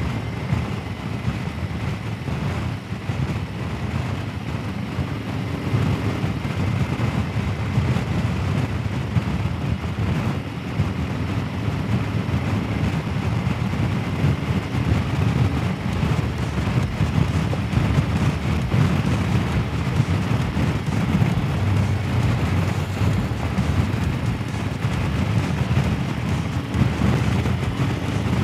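Touring motorcycle riding at road speed: a steady low engine and road rumble with wind rushing over the microphone.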